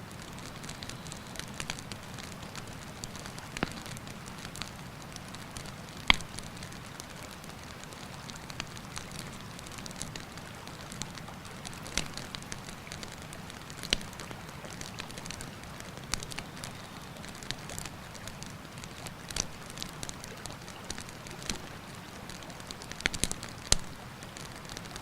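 Campfire crackling, with irregular sharp pops of burning wood, the loudest about six seconds in and a quick run of them near the end, over the steady rush of a river.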